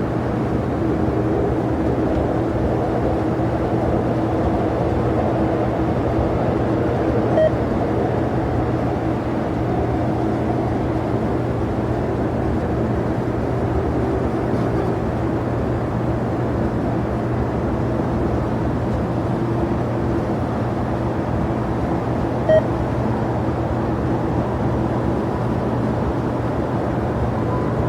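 Steady drone of jet aircraft engines running at the airport, with a constant low hum and no rise or fall, broken by two short blips about seven and twenty-two seconds in.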